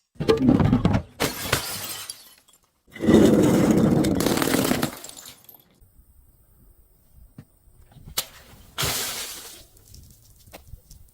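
Glass bottles being crushed, breaking and crunching in bursts: two short ones near the start, a longer one of about two seconds in the middle, and another near the end, with a single sharp click just before it.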